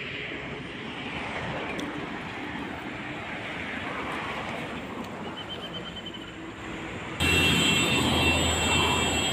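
Outdoor roadside noise of running vehicle engines and traffic, steady at first; about seven seconds in it turns abruptly louder, with a close engine and a steady high whine.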